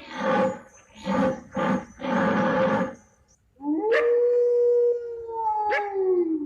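A dog calling: four short, rough cries in quick succession, then a long steady howl that sags in pitch at the end.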